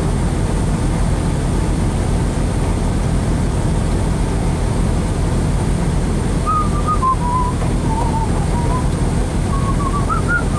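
Rally car engine idling steadily, heard from inside the cabin.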